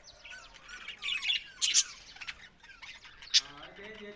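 A flock of budgerigars chattering and chirping, with two loud, sharp squawks, one near the middle and one about three and a half seconds in.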